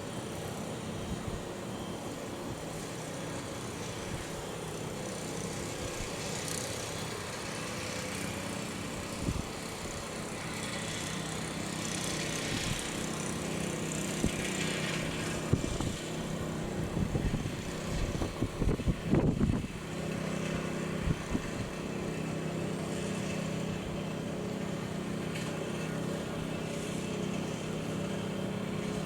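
Airbus A320's CFM56-5B turbofan engines at takeoff power, a steady distant jet rumble with a hum under it, the hiss swelling in the middle. A cluster of thumps and crackles comes about halfway through.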